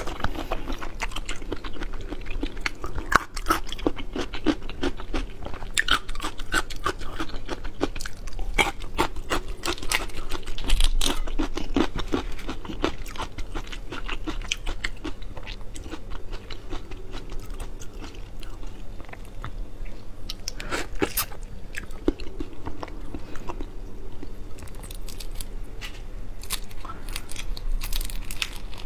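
Close-miked chewing and crunching of cooked shrimp, mixed with the crackle and snap of the shrimp's shell being pulled apart and peeled by hand. The crackles come thickest in the first dozen seconds, thin out for a while, then return in clusters near the end.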